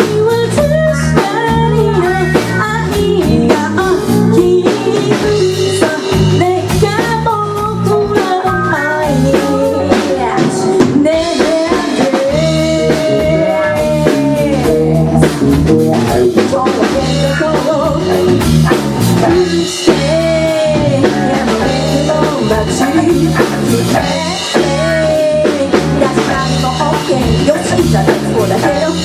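A live rock band playing a song with drums, guitar and a singer's melody over them.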